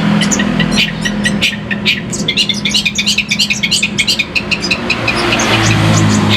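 Long-tailed shrike (pentet) singing a fast run of short, sharp, high chattering notes, densest and quickest in the middle, over a steady low hum.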